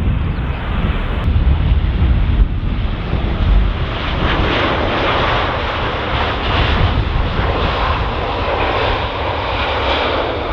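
Jet engines of a Boeing 787-9 airliner landing, a steady rushing roar that grows fuller and stronger about four seconds in.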